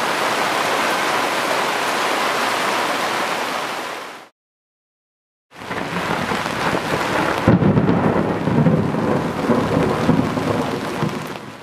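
Heavy rain pouring with a steady hiss, fading out about four seconds in. After a second of silence, a logo sound effect starts with a rushing swell. About a second and a half later it hits with a deep boom and a rumble, then fades out near the end.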